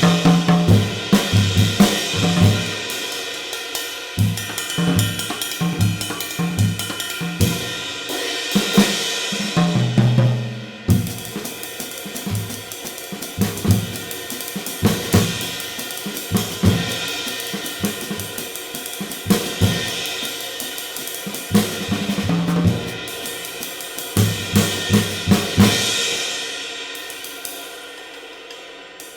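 A drum kit groove played on a 19-inch hand-made B20 bronze extra-light ride cymbal, with kick and snare hits underneath. Near the end the drums stop and the cymbal's ring fades away.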